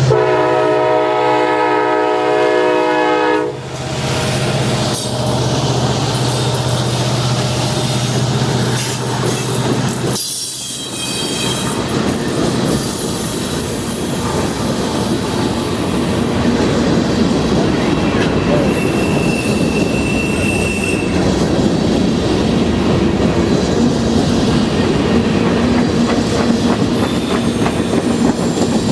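Freight train passing: the diesel locomotive's chime horn sounds one held chord for about three and a half seconds over the engine's steady running, then from about ten seconds in the cars roll by with steady wheel-on-rail noise, clickety-clack and brief wheel squeal.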